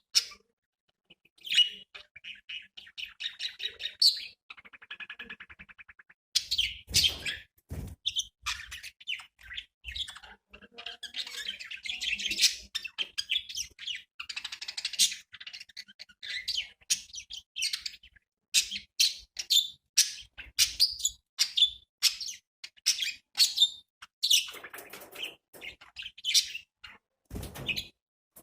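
Budgerigars chirping and warbling, a rapid run of short high chirps and chattering trills with brief pauses. A few dull thumps come in between, one about seven seconds in and another near the end.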